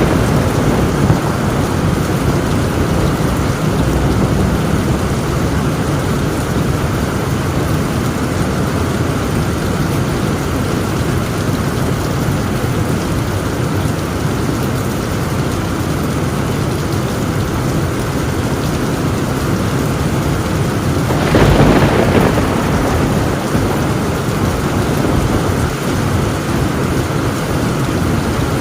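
Torrential rain drumming steadily on a tin roof over a continuous low thunder rumble. About three quarters of the way in, a louder thunderclap cracks and rumbles for a second or two.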